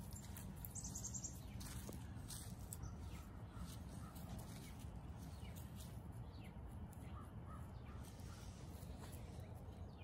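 Birds calling faintly a few times over a steady low outdoor rumble.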